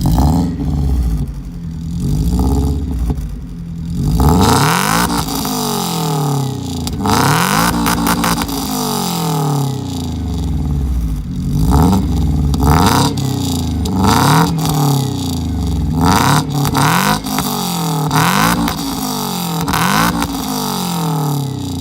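Lada Priora's four-cylinder engine revved repeatedly through its exhaust. The pitch climbs and drops again every second or two, with short idle dips between the revs.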